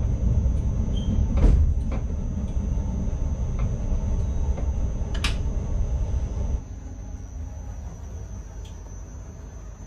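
ICMm electric multiple unit heard from inside the driver's cab: a steady running rumble with a constant high-pitched whine and a few sharp clicks and knocks. About six and a half seconds in, the rumble drops suddenly to a much quieter level.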